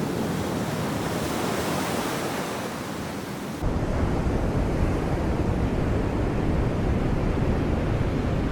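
Sea waves washing on the shore, a steady rushing hiss that swells and then eases. About three and a half seconds in, the sound changes abruptly to a duller, deeper rumble with less hiss.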